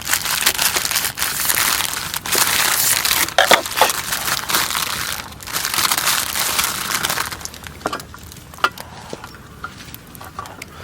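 Crinkling and crunching of a plastic food package being handled and opened for about seven seconds, then dying down to a few light clicks and taps.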